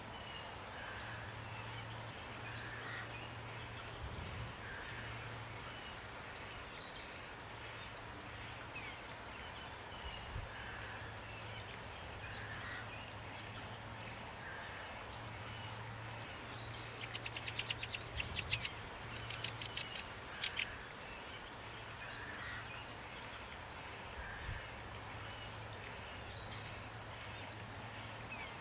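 Steady rain falling while songbirds call: many short, high, quickly falling chirps repeat throughout. About two-thirds of the way through, a bird gives a fast rattling trill, the loudest sound, and a low hum comes and goes under it all.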